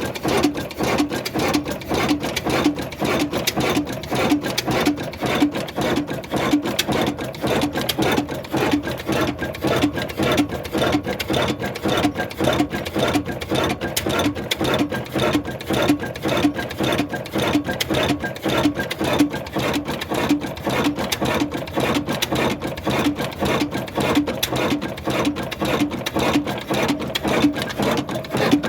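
Old stationary diesel engine of the Ruston Hornsby 'old black engine' type running steadily, with an even beat of about four strokes a second.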